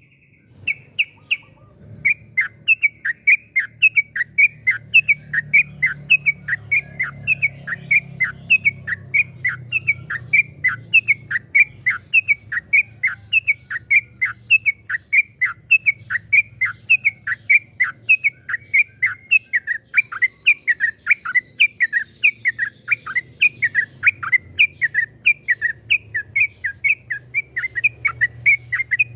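Yellow-vented bulbul singing a long, rapid run of short falling notes, about three a second, after a brief pause near the start.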